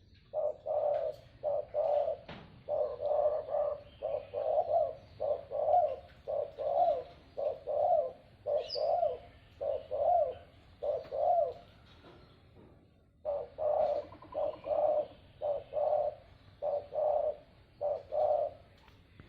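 A dove cooing in a long run of short, rapidly repeated coo notes, about two a second, with a brief pause a little past the middle before the cooing resumes.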